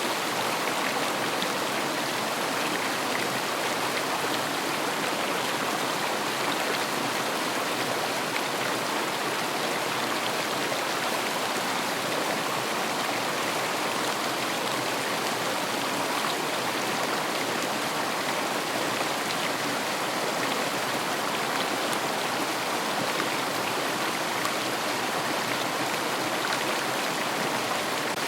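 A river flowing over stones, a steady rushing and babbling of water.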